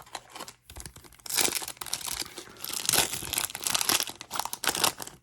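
Wrapper of a basketball trading card pack being torn open and crinkled by hand: a run of irregular crackling and tearing bursts that start about a second in.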